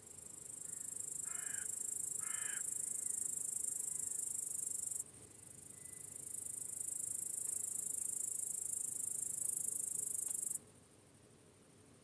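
A high, shrill insect chorus that swells up, breaks off suddenly about five seconds in, swells again and cuts off abruptly near the end. A bird gives two short harsh calls early on.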